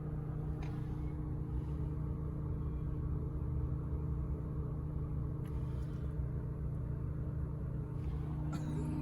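A car running with a steady low rumble and a constant drone, unchanging throughout.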